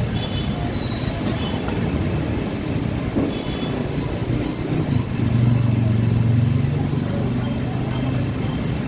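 Street traffic in the rain: vehicles passing on a wet road, with a louder engine hum as a heavier vehicle goes by about five to seven seconds in.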